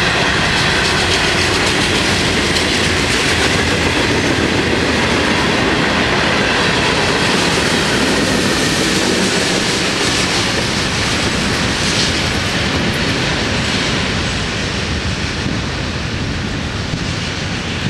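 Freight cars of a Florida East Coast Railway train rolling past at close range: a steady rumble and clatter of steel wheels on the rails, with faint high ringing tones over the first few seconds. The sound eases off near the end as the last cars pass.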